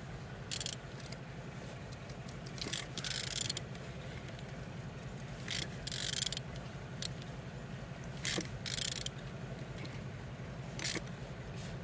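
Removed Opel Z16LET 1.6-litre turbo four-cylinder engine being turned over by hand with a ratchet wrench on the crankshaft: a steady low mechanical churning broken by about eight short bursts of ratchet clicking and scraping. It turns over freely, which is the sign that the engine is not seized.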